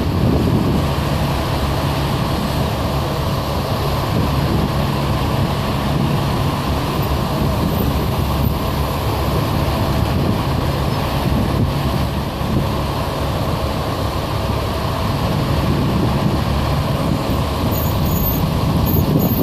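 A line of motor vehicles passing by in a procession, a steady mix of engine hum and road noise.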